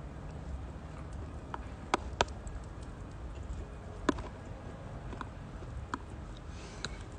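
Firewood burning in a Uniflame Nature Stove Large campfire stove, crackling with scattered, irregular sharp pops over a low steady rumble. The loudest pops come about two seconds in and again about four seconds in.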